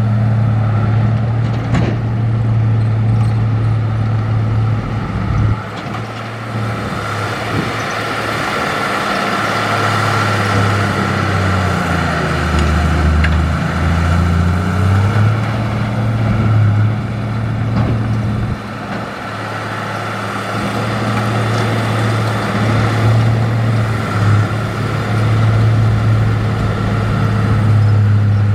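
Heavy diesel engine of earthmoving machinery working, its pitch rising and falling as the load changes, with a steady higher whine and a few scattered knocks.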